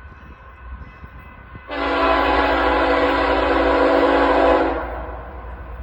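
BNSF locomotive air horn sounding one long blast of about three seconds, a chord of several steady tones, over a low rumble from the train.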